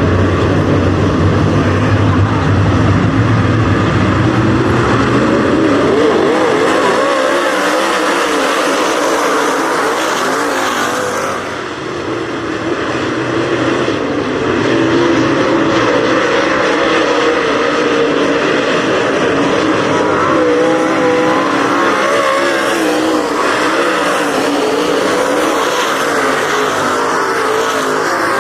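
A field of dirt-track race cars running laps in a heat race, their engines loud and rising and falling in pitch as they come around. The sound dips briefly about a third of the way through, then builds back up.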